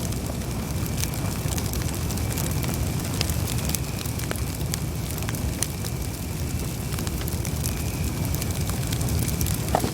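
Wood campfire burning: a steady low rumble of flames under frequent small crackles and pops, with one louder pop near the end.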